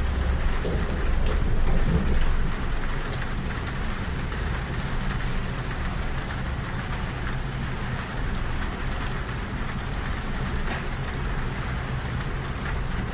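Rain falling on a train carriage's window and roof, many small drops ticking, over the steady low rumble of the moving train; the rumble is heaviest in the first couple of seconds.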